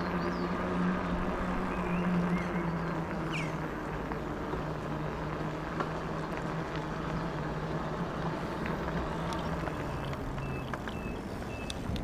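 Riding noise from an e-bike: wind and tyre rumble, with a low steady hum that fades away over the first half. A few short high chirps, like birds, come through, one about three seconds in and several near the end.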